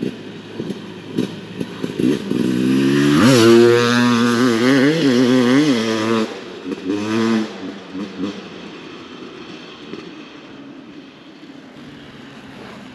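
Husqvarna TE300 TBI two-stroke dirt bike engine revving. About three seconds in the pitch climbs sharply, then rises and dips with the throttle for a few seconds before the sound fades away.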